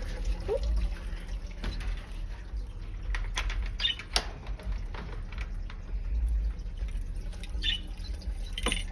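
Scattered light clicks and rustling from handling, most of them about three to four seconds in and again near the end, over a steady low hum.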